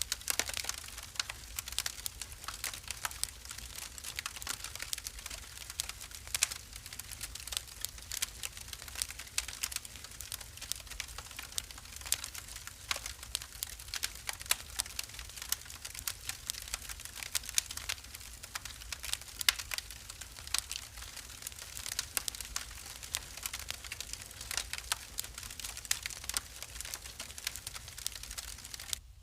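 Wood fire crackling steadily with frequent irregular sharp pops and snaps, over a steady low rumble. The sound drops out for an instant near the end.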